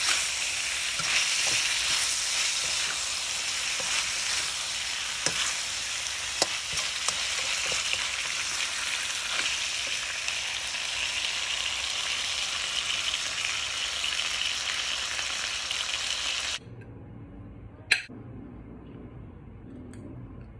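Pork belly and pickled mustard greens sizzling as they are stir-fried in sauce, with a metal spatula now and then clicking and scraping against the pan. The sizzling cuts off suddenly about three-quarters of the way through, leaving a much quieter room sound with one sharp click.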